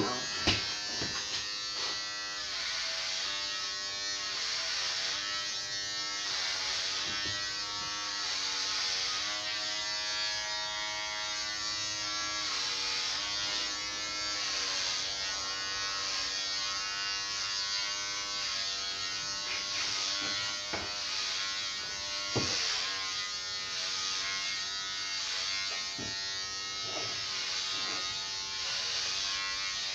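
Electric clippers running with a steady buzz whose pitch drifts slightly as they work, with a few brief clicks.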